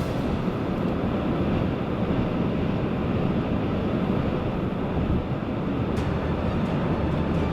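Steady road noise heard from inside a car driving on a snow-covered highway: a low, even rumble of tyres and engine with wind.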